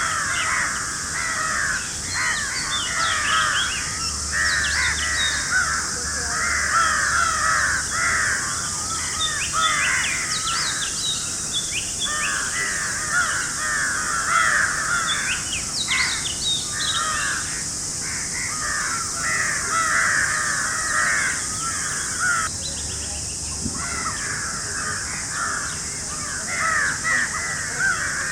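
A dense chorus of bird calls: many short, rapidly repeated calls overlapping almost without pause, with brief lulls, over a steady high-pitched hiss.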